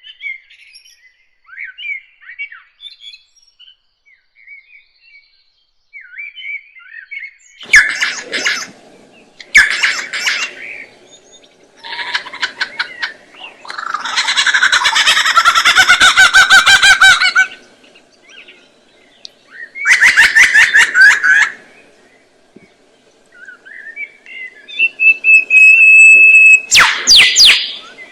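Birds chirping softly, then breaking into several loud spells of rapid chattering calls, each lasting one to a few seconds. A short, steady whistled note comes near the end.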